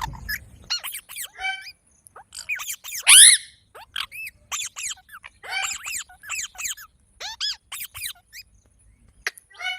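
Pet green parrot calling: a rapid run of short, shrill squawks, each sharply bending in pitch, about two to three a second, the loudest about three seconds in.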